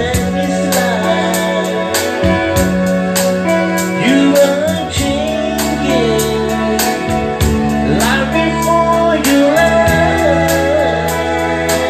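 A band playing a song with a singer: a voice over sustained held chords and bass, with a steady drum beat.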